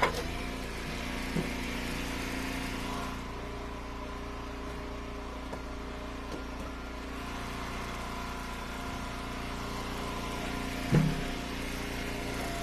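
Eastonmade Ultra wood splitter's gas engine running steadily, with a few short knocks: near the start, about a second and a half in, and about eleven seconds in.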